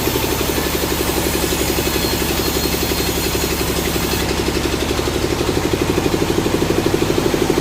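Sawmill engine running steadily with a fast, even throb.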